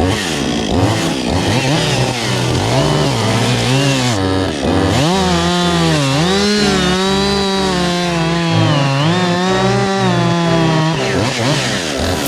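Gas chainsaw revving up and down, its pitch rising and falling over and over, then held high for several seconds as it cuts.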